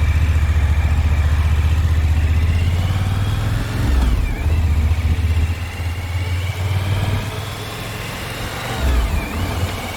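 Motorcycle engine pulling away and accelerating. Its whine rises, dips sharply about four seconds in and again near the end, typical of shifting up a gear, then rises again.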